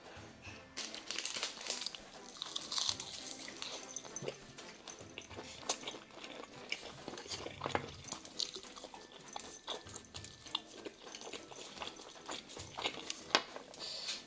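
Close-miked eating: crisp crackling and crunching of a roasted-seaweed wrap filled with rice and kimchi stew, then chewing, with scattered sharp snaps starting about a second in.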